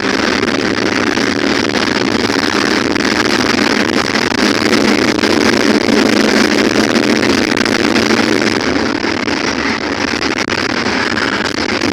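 Water fountain splashing steadily, a continuous even rush of falling water.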